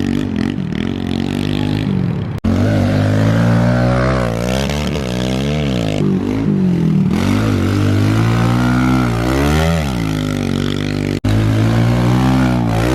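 Small motorcycle engine being ridden, revving up and down again and again as the throttle is opened and closed. The sound cuts off sharply twice, about two and a half seconds in and near the end.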